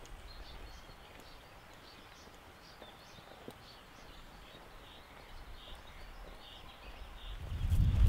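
Quiet forest ambience with faint, short bird chirps repeating. Footsteps on the trail come back in near the end.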